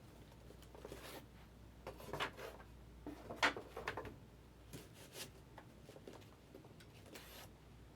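Trading cards and pack wrappers being handled, with faint short rustles and slides coming in irregular bursts.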